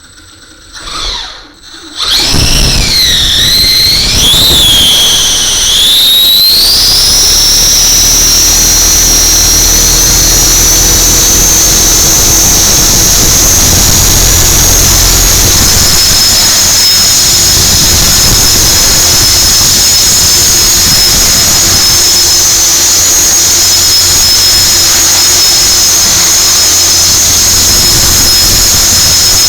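450-class electric RC helicopter spooling up about two seconds in, its high whine wavering and climbing in pitch over the next few seconds, then running at a steady loud whine at flying speed.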